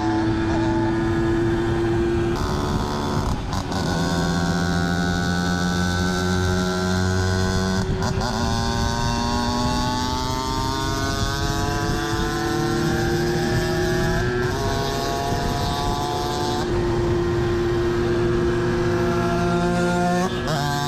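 Two-stroke moped engine of 60 cc under way, its pitch climbing slowly under throttle and dropping back sharply about five times at gear changes or throttle lifts.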